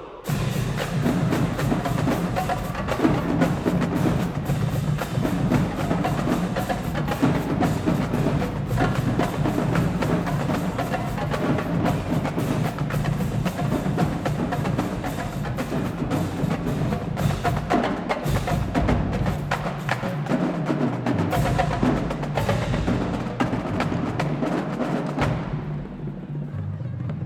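Marching band drumline playing a fast, dense percussion passage of rapid drum strokes, which stops about twenty-five seconds in.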